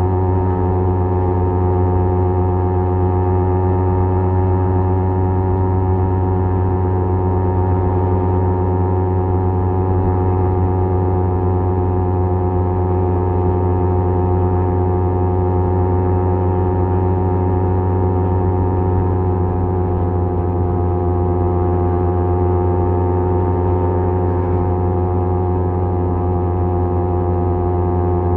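Kawasaki Z250 parallel-twin engine running through a SeaPro aftermarket muffler, cruising at nearly steady revs. The exhaust note is a steady, strongly pitched drone.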